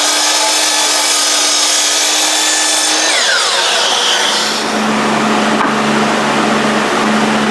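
Power saw cutting wooden braces: a steady motor whine with cutting noise that winds down about three seconds in. A lower steady motor hum starts a little past halfway through.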